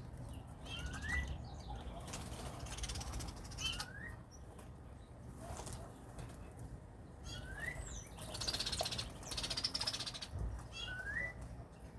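A bird repeats a short rising call four times, a few seconds apart, with bursts of rustling, fluttering noise between the calls.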